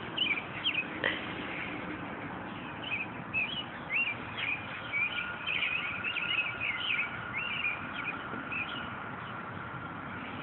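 Small birds chirping and singing in quick, short, warbling phrases, with a faint steady high tone joining about four and a half seconds in.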